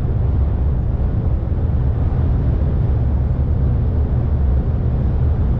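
Steady low rumble of a truck moving at speed, heard from inside the cab: road and running noise with no distinct engine note.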